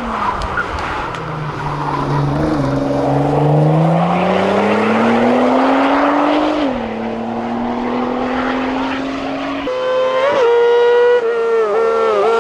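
Racing car engine under hard acceleration, its pitch climbing steadily and then dropping suddenly at an upshift. It pulls up again in the next gear, then jumps higher and louder near the end.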